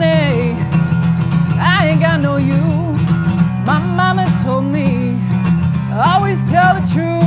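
A woman singing a bluesy country song to her own strummed acoustic guitar, in four held phrases with a wavering vibrato over steady chords.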